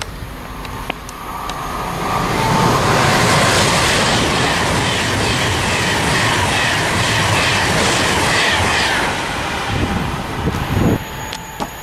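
Class 390 Pendolino electric express passing through the station at speed: a rising rush of wheels on rail with a rapid clickety-clack over the rail joints. It dies away about nine seconds in.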